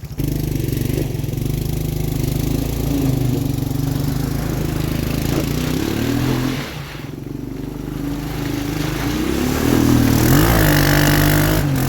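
Three-wheeler's small single-cylinder engine running and being revved in mud. The pitch climbs about halfway through, drops off briefly, then climbs again to the loudest rev near the end.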